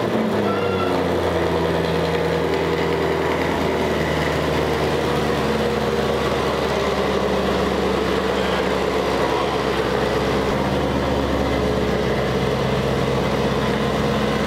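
2018 Chevrolet Camaro ZL1's supercharged 6.2-litre V8 idling steadily.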